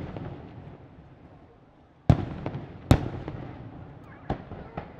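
Aerial firework shells bursting. The rumble of a burst fades over the first two seconds, then two loud booms come about a second apart, each trailing off in a rumble, followed by a few smaller sharp cracks.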